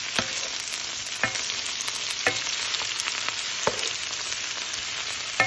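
Green beans sizzling in hot vegetable and olive oil in a pot as they are stirred with a wooden spatula. A steady hiss is broken by five sharp knocks of the spatula against the pot, about one a second, the last the loudest.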